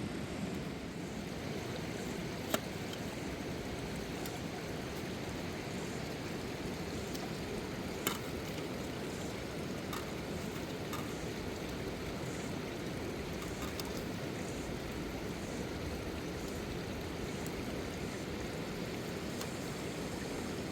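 Steady rushing of a fast river. A few sharp clicks are heard over it, the loudest about 2.5 s in and another about 8 s in.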